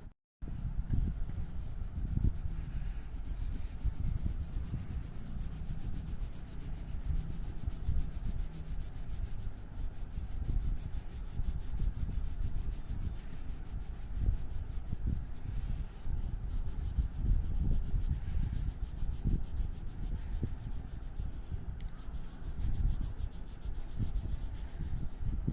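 Colouring strokes rubbing on paper: a continuous, irregular scratchy rubbing as the drawing is coloured in. The sound drops out for a moment just after the start.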